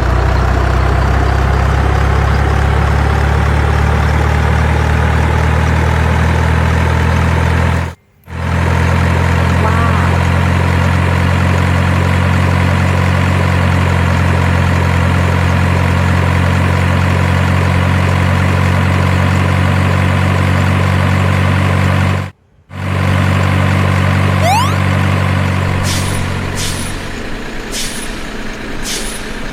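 Steady, loud, low engine-like drone, like a heavy vehicle running, cut off sharply twice for a moment. Near the end the drone stops and a few sharp clicks follow.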